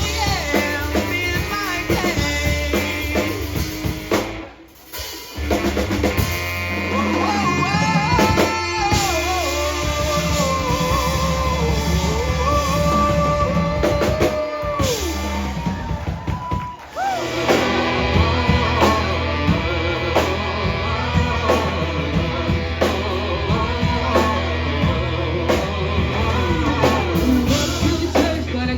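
Live rock band playing, with drum kit, bass, guitar and a singer carrying the melody. The music drops out briefly twice, about four seconds in and again past the middle.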